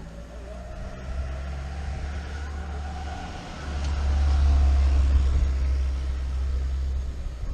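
Wind rumble on the microphone and rolling noise from a mountain bike heading downhill. The rumble gets louder about halfway through, with a faint wavering whine above it.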